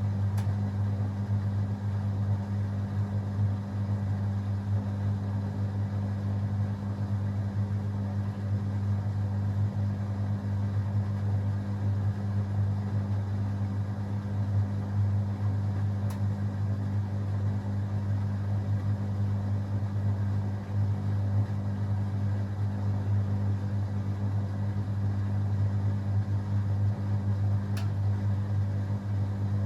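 Beko WA 1050 washing machine spinning steadily, a constant low hum and whir with no pauses or changes in speed.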